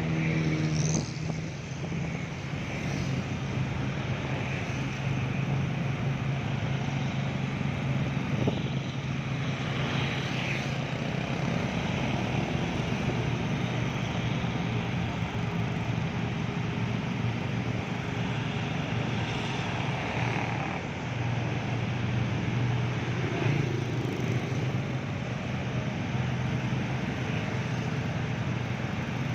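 Heavy truck engine running steadily, a low drone with a constant noisy hiss over it.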